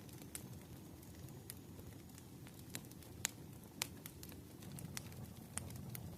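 Fire crackling: a handful of sharp, irregular pops and snaps, the loudest around the middle, over a faint steady low rumble.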